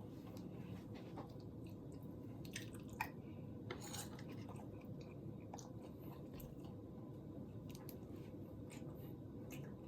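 A person chewing and eating food: scattered small wet clicks over a steady low hum, a little louder about three and four seconds in.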